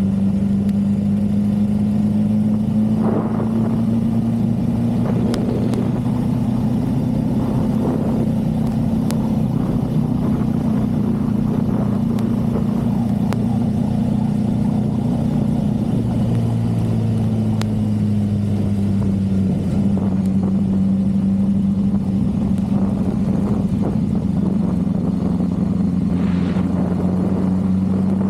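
Motorcycle engine running steadily at a slow riding pace, its note drifting only slightly, easing off a little about two-thirds of the way through and then picking up again.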